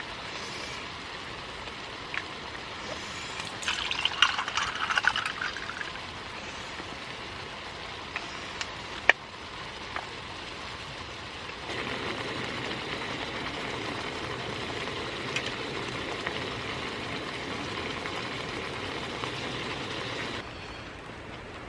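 Food sizzling in a pan: a crackling burst early on, a sharp click about nine seconds in, then a steady sizzling hiss for several seconds that stops suddenly near the end.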